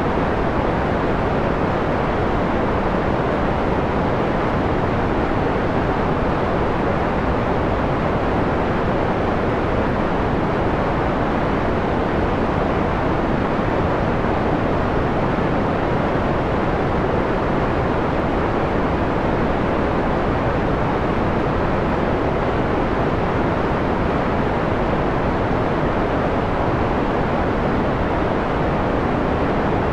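Steady, continuous white noise filtered to a mellow, muffled hiss: the treble is dulled away, leaving a deep, even rush without any change or interruption.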